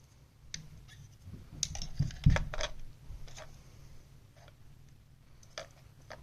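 Clicks and knocks of a small plastic laptop fan and its wires being handled and hooked up to bench power supply leads, with a louder thump about two seconds in. The old fan does not spin.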